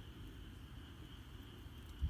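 Campfire burning quietly with a few faint crackles near the end, over a steady high-pitched chirring of night insects.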